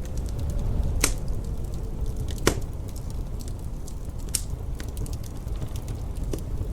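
Wood fire crackling in a fireplace, with many small ticks and a few sharper pops, the loudest about a second and two and a half seconds in. Under it runs a steady low rumble of wind.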